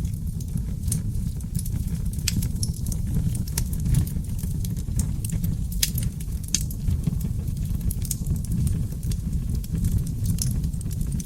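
Seasoned oak logs burning in a fireplace: a steady low rumble of flames under frequent sharp crackles and pops, with a few louder pops scattered through.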